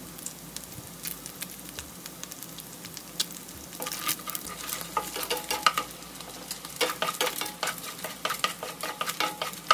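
Pounded anchovies, garlic and shallots sizzling and crackling in bubbling oil in a wok as they fry toward crispness. About four seconds in, a wooden spatula starts stirring and scraping through them, louder again near the end.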